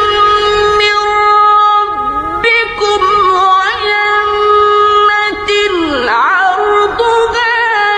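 Melodic Quran recitation by a high voice, unaccompanied, holding long notes with wavering ornaments and sliding between pitches, with a deep swoop down and back up about six seconds in.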